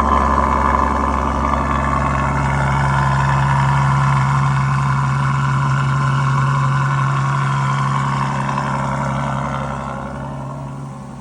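Ferrari FF's 6.3-litre V12 idling steadily just after a frosty cold start, then quietening noticeably near the end.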